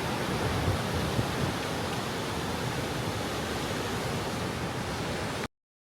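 Strong wind rushing over the microphone on an open ship deck, a steady noise with low buffeting, that cuts off abruptly near the end.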